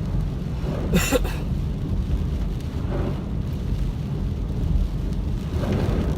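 Car driving on a wet road, heard from inside the cabin: a steady low rumble of engine and tyres, with one short sharp sound about a second in.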